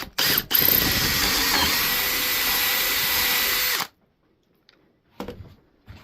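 Power drill boring a hole for a 3/8-inch dowel through a dowel jig into the edge of a board: two brief blips of the trigger, then a steady run of about three seconds that cuts off suddenly. A light knock follows about five seconds in.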